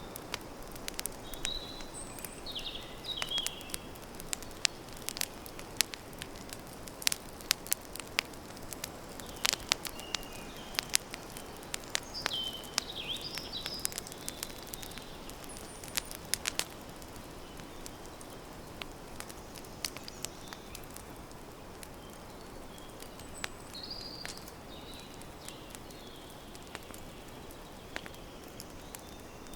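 Wood campfire crackling, with many sharp snaps and pops over a steady low hiss, the snaps thickest in the first half and sparser later. Small birds chirp briefly now and then in the background.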